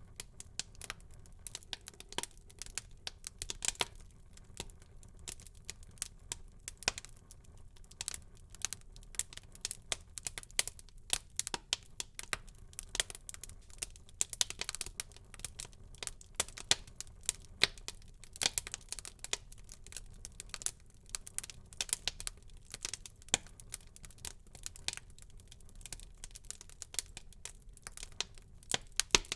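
Wood fire burning in a fireplace, crackling with many irregular sharp pops and snaps over a faint low rumble of the flames.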